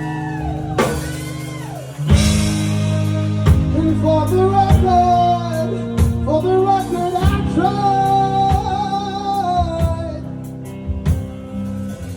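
Live band playing a blues-rock song with drums and a bending melody line over a steady low end; the full band comes in about two seconds in.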